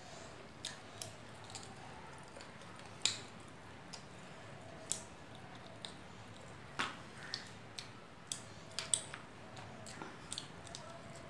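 A person chewing chicken curry and rice eaten by hand, with irregular sharp wet mouth clicks and smacks, the loudest about three seconds in and again later on.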